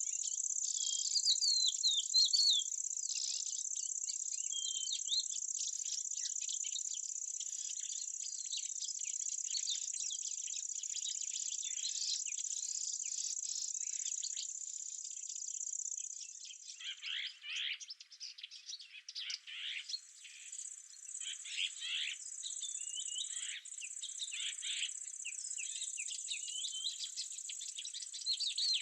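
Steady high-pitched trilling of insects such as crickets, with birds chirping over it. The trill dips briefly a little past halfway, and the bird chirps grow busier and lower after that.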